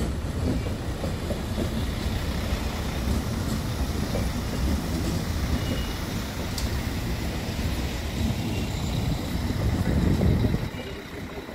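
DB class 620 diesel multiple unit (Alstom Coradia LINT) passing close by: a steady rumble of its engines and wheels on the rails, which falls off sharply a little before the end.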